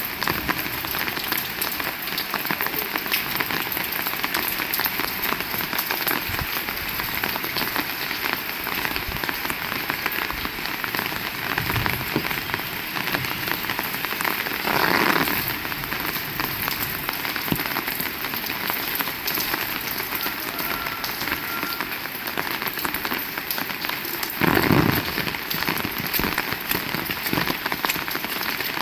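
Heavy rain falling and pattering on surfaces, a dense steady hiss. It swells louder briefly twice, once about halfway through and again near the end.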